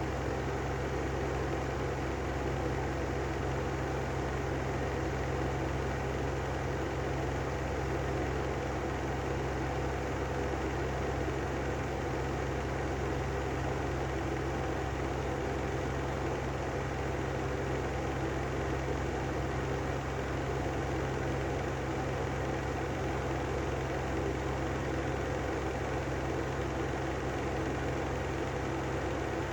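Brand new Lanson style 3 exhaust fan running steadily, a constant low hum under a dense rough noise that does not change: the sound of its bad bearings.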